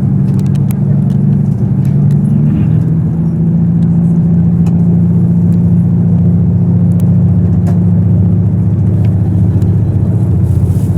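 Diesel engine of a KiHa 85 series railcar, a Cummins unit, running under power with a steady drone. Its pitch steps down about two and a half seconds in, then holds. Faint clicks sound now and then.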